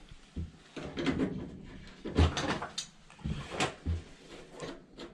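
Irregular knocks, clunks and scraping from handling a washing machine's water inlet hose and its fitting, with louder clunks about two and three and a half seconds in.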